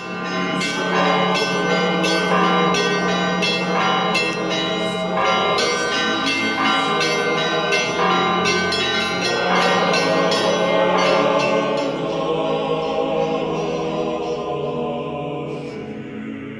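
Church bells ringing in a quick, repeated pattern of strokes over a lingering hum of overtones, the strokes thinning out after about twelve seconds.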